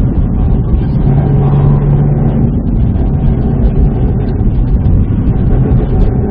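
Subaru WRX STI's EJ20 turbocharged flat-four running steadily under way, with road and tyre noise, heard inside the cabin.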